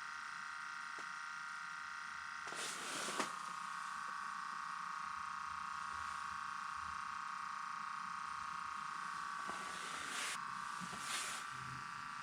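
A steady high hum, with a few brief rustling noises about three seconds in and again near the end.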